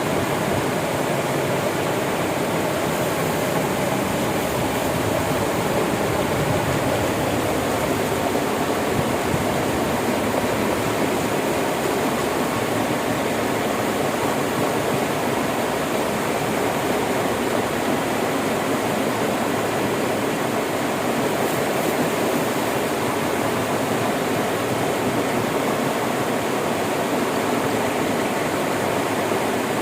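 River water flowing steadily, a constant rushing noise with no change.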